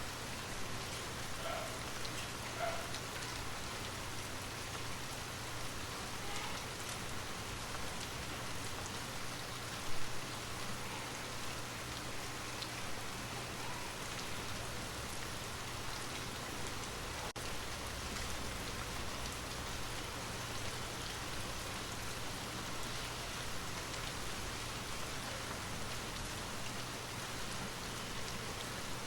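Steady rain falling, with scattered individual drops heard close by and one brief louder spot about ten seconds in.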